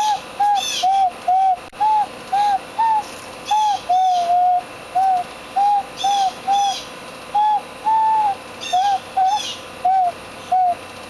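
A handmade bird whistle blown by a child in a string of short, pure whistle notes, about two a second, each bending up and back down in pitch, like a hooting bird call; one note near the middle and the last one are held a little longer.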